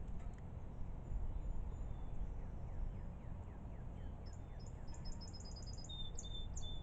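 Small birds chirping: high, quick chirps, with a rapid run of about eight notes around four to five seconds in and a short steady whistled note near the end, over a steady low background rumble.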